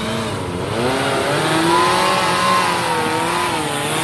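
Off-road 4x4's engine revving under throttle, its pitch rising and falling several times and peaking about halfway through.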